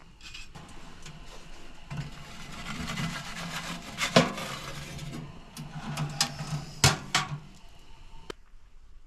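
Rubbing and scraping over a low hum, broken by sharp knocks, the loudest about four seconds in and two more around seven seconds in.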